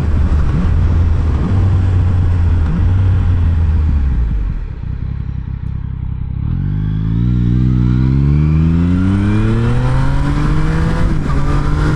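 Yamaha MT-09's inline three-cylinder engine, heard from the rider's seat: running steadily, then easing off and going quieter for about two seconds in the middle as the bike slows. It then pulls up in one long rising climb as it accelerates, with wind rush underneath.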